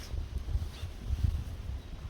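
Low, uneven rumble of wind on the microphone, with a few faint ticks.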